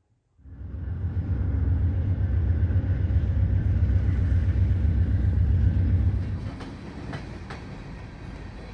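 A passing train: a heavy low rumble that starts suddenly and eases off about six seconds in, then wheels clicking over rail joints.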